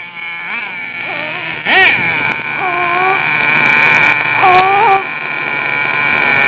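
Small nitro engines of radio-controlled trucks running with a high, steady whine, revved up and down in pitch several times as the throttle is blipped.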